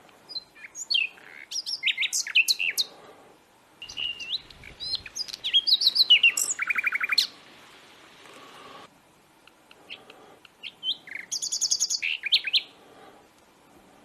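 Birdsong: three bursts of varied quick chirps, sweeping notes and short rapid trills, each lasting a few seconds.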